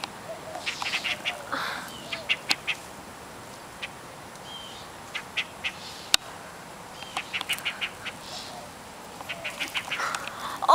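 A bird in the trees giving short, sharp calls in quick runs of four to six at a time, repeated every second or two.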